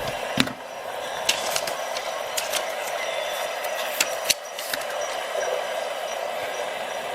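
Sharp metal clicks and ticks, about eight scattered over the first five seconds, as the tools of a Victorinox Swisschamp XLT Swiss Army knife are handled, opened and snapped shut, over a steady background hiss.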